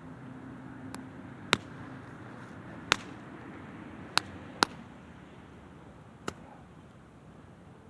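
Wood campfire crackling, with about five sharp, separate pops over the first six seconds and a faint steady hiss underneath.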